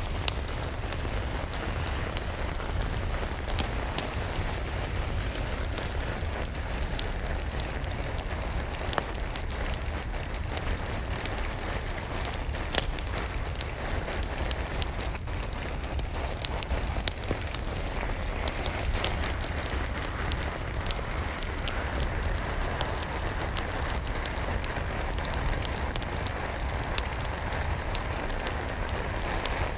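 Steady rain alongside a crackling fireplace fire: an even rain hiss with frequent sharp, irregular pops and crackles.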